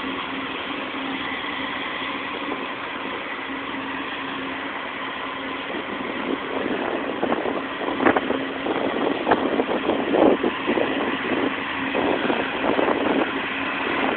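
Diesel freight locomotives running with a steady drone and constant whine. From about six seconds in, irregular knocks and rattles join.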